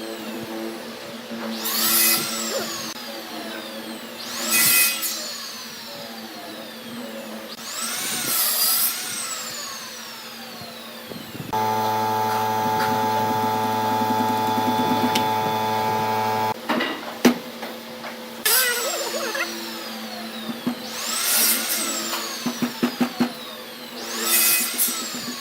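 Workshop machine sounds. A motor runs at a steady pitch for about five seconds in the middle. Around it are whooshing sweeps that rise and fall in pitch every few seconds, and a quick run of clicks near the end.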